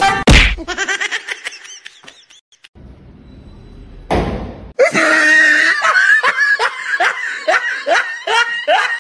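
Loud, repeated laughter that fills most of the second half, preceded by a short whoosh just before it. A sharp hit sounds right at the start.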